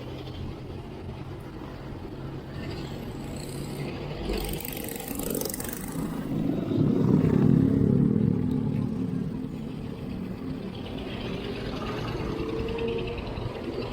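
Road traffic heard from a moving bicycle: a steady low rumble, with a motor vehicle passing close and loudest about seven to eight seconds in.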